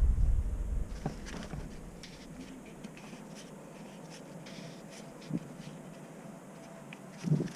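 Faint scraping and scattered small clicks of parts being handled, with a soft knock about five seconds in and a louder knock near the end.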